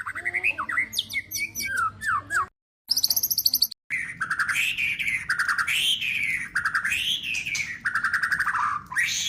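White-rumped shama song spliced from recordings: quick whistles, trills and a burst of very high buzzy notes, broken by two abrupt silent cuts. From about four seconds comes a run of repeated rising-and-falling warbled phrases.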